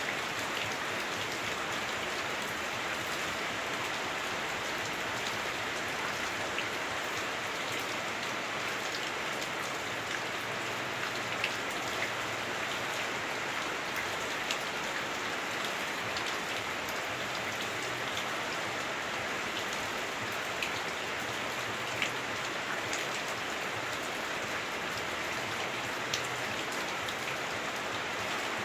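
Heavy rain falling on a house roof, heard from inside the house: a steady dense hiss, with a few louder single drop ticks now and then.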